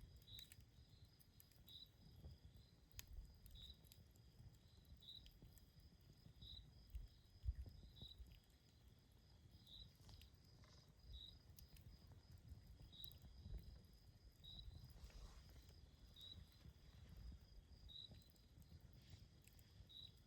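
Faint campfire ambience: sparse light crackles and a low rumble, with a short high chirp repeating about every second and a half over a faint steady high tone.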